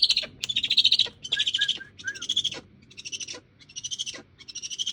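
Owl giving a series of harsh, raspy hissing screeches, about six in a row, each roughly half a second long with short gaps between.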